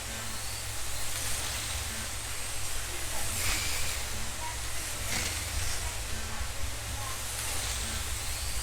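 Several 1/32 scale slot cars racing on a commercial track: a steady hiss of small electric motors and pickup braids on the rails, with a car sweeping past every couple of seconds.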